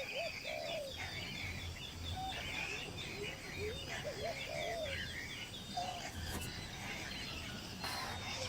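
Birds calling: runs of quick, repeated high chirps together with lower, wavering calls that come and go.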